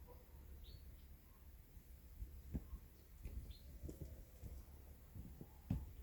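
Faint outdoor sound: a small bird gives two short, high chirps, about three seconds apart. A few soft, dull knocks come in between and near the end; these are the loudest sounds.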